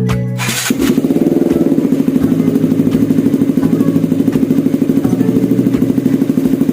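A KTM Duke 200's single-cylinder engine idles through a custom link pipe and an SC Project-style canister with a dB killer fitted, a loud, steady exhaust note with a fast, even pulse. Background music ends about half a second in, just before the exhaust comes in.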